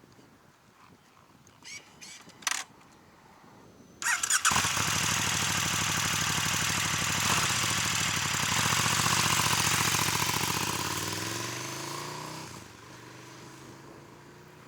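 2019 KTM 1290 Super Duke R V-twin with an Austin Racing V3 de-cat exhaust and no dB killer, warm-started: the engine catches suddenly about four seconds in and runs loud at a high idle. Its pitch falls near the end, and then it is much quieter.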